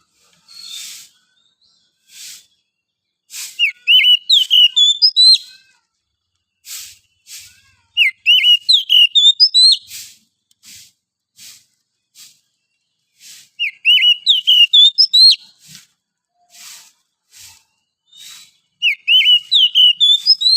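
Oriental magpie-robin singing: four loud phrases of quick rising and falling whistled notes, about five seconds apart, with short faint notes between them.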